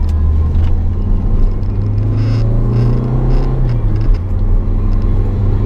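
Ford Fiesta's engine and road noise heard from inside the cabin while driving: a steady low drone whose pitch rises about two seconds in and drops back around four seconds.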